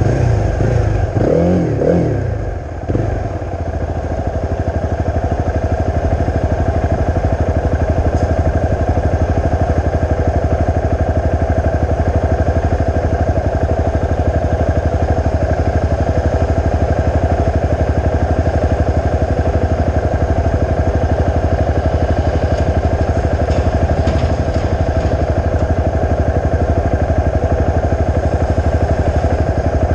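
Honda CRF250's single-cylinder four-stroke engine through a Leo Vince aftermarket exhaust. The engine note shifts up and down in the first few seconds, then holds a steady, unchanging note for the rest of the time.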